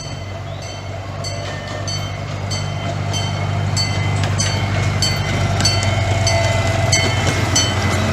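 Miniature park train's gas-powered engine running as the train approaches, growing louder, with its wheels clicking over the rail joints about twice a second.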